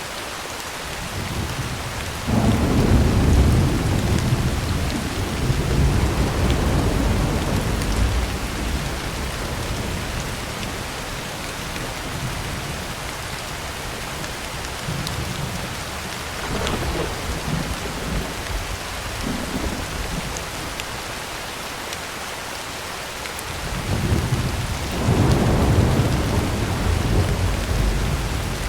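Heavy rain falling steadily on a tin roof, with rolls of thunder rumbling. A long roll starts about two seconds in, a fainter one comes in the middle, and another near the end.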